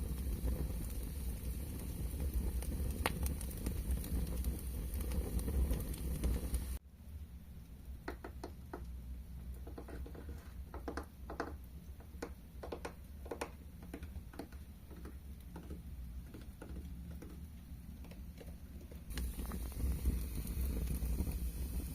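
Dense steady pattering and crackling noise. About seven seconds in it cuts abruptly to a quieter run of sharp ASMR taps on a hard surface, coming irregularly and several a second at their busiest. Near the end the pattering and crackling returns.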